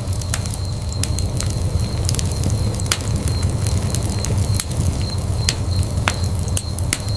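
Wood fire burning in a fireplace, with a steady low rumble and sharp crackles and pops at irregular intervals.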